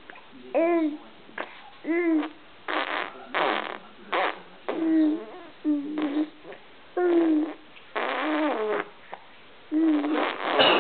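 Baby vocalising: short cooing and squealing calls that rise and fall, alternating with spluttering raspberries blown through the lips, over and over.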